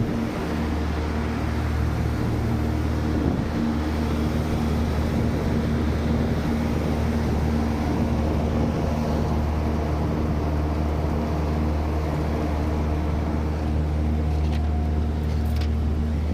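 Packaged air-conditioning equipment running: a steady low hum with a few steady tones above it, from the compressors and fans. A few faint clicks come near the end.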